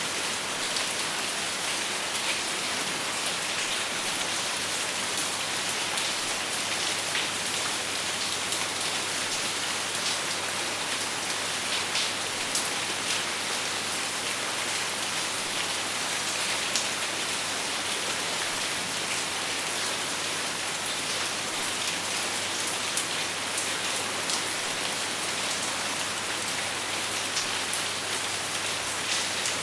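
Steady rain falling, with no thunder: a dense, even hiss with many individual drops ticking sharply through it.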